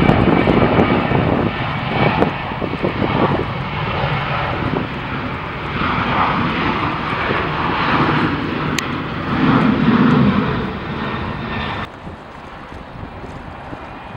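Loud jet airliner engine noise as a plane passes, cutting down abruptly about two seconds before the end.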